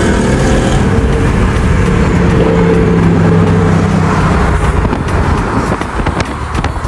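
A car engine running close by and loud, holding a steady note for a few seconds, then easing off about four seconds in. Scattered sharp clicks follow near the end.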